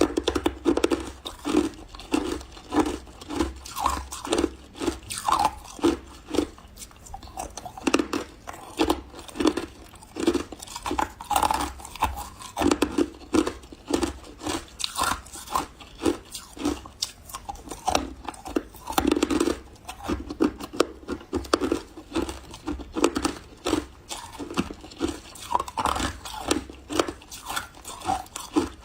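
Close-miked chewing of refrozen powdery freezer ice, a steady run of soft crunches, about two to three a second.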